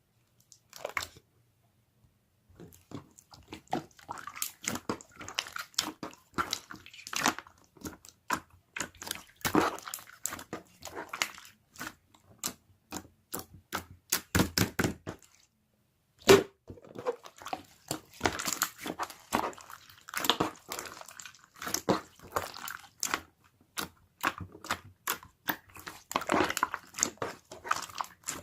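Close-up chewing of crisp raw vegetables: a dense run of crunching bites and chews, pausing briefly a couple of times.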